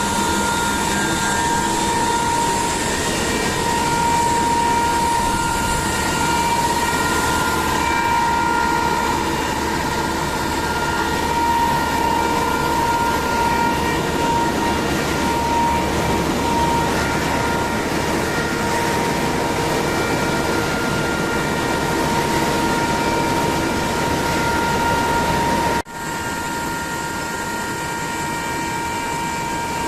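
Machinery running steadily with a continuous high whine over a broad mechanical noise. About 26 s in the sound drops out for an instant and carries on slightly quieter.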